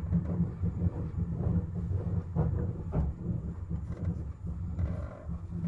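Izu Kyuko 8000 series electric multiple unit running along the line, heard from inside the car: a steady deep rumble of wheels on rail, with a couple of sharp knocks a little past the middle.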